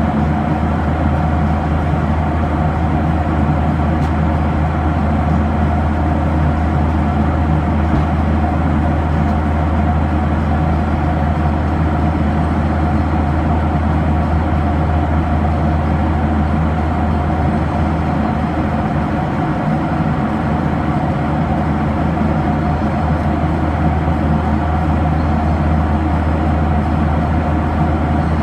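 Steady cabin noise of a Boeing 737-800 in flight: the drone of its CFM56-7B turbofan engines and the airflow, with a strong low hum and a few steady higher tones.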